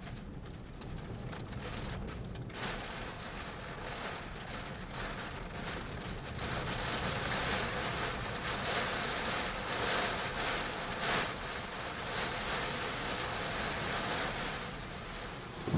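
Typhoon wind and rain, gusting hard against the microphone; the wind picks up a couple of seconds in and strengthens again about six seconds in.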